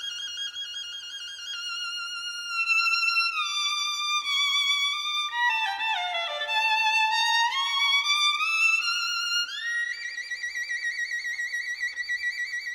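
Instrumental music: a slow solo violin-like melody of long held notes. About halfway through it slides down in pitch and then climbs back up, and near the end a note is held with wide vibrato.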